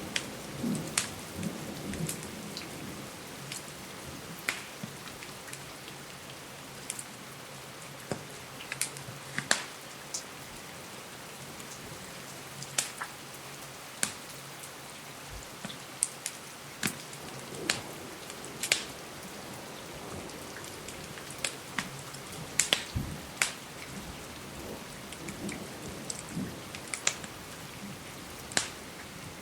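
Steady rain against a window with irregular sharp crackles and pops from a wood fire, and a low thunder rumble in the first couple of seconds.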